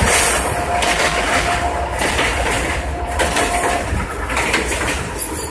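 Passenger train running at speed, heard from aboard a carriage: a steady rumble of wheels on rail with irregular clickety-clack, and a thin steady whine through the first four seconds.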